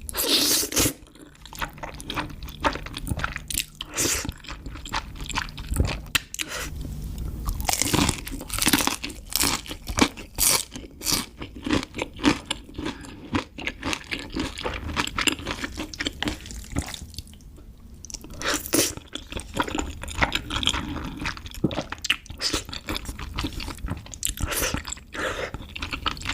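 Close-miked chewing with many crisp, irregular crunches, typical of biting into crispy panko-fried shrimp.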